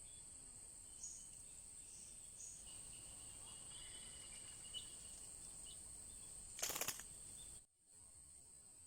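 Steady high-pitched insect drone, with a few faint short high chirps over it. Near the end comes a brief, rapid, louder rattle, and then the sound drops away abruptly.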